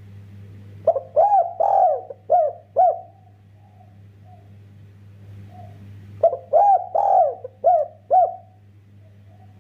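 Spotted dove (derkuku) cooing: two phrases of about five arched coos each, one about a second in and one about six seconds in, with soft quieter coos between them. A steady low hum runs underneath.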